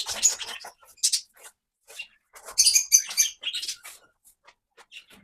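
Small aviary birds chirping and squeaking in short, irregular bursts.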